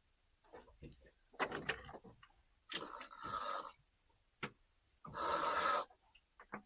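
Close-up rubbing and scraping noises with scattered light knocks in the first two seconds, then two longer scraping bursts about three and five seconds in.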